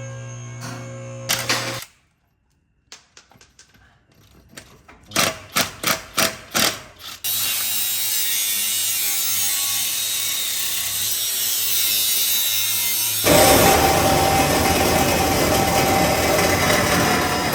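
Shop tool sounds. After a moment of background music and a brief silence comes a run of sharp ratchet-like clicks, about two a second. Then a steady, loud mechanical noise takes over about seven seconds in and gets louder about thirteen seconds in.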